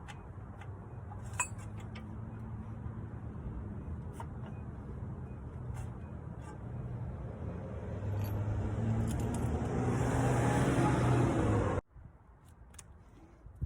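A motor vehicle engine running with a steady low hum, growing louder for a few seconds before cutting off abruptly, with a few light metallic clinks early on.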